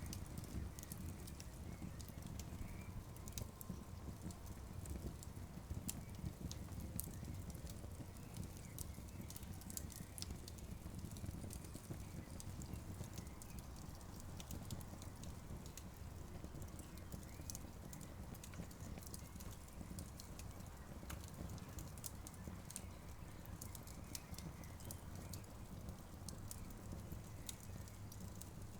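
Campfire crackling: a steady scatter of sharp pops and snaps over a low, even rumble.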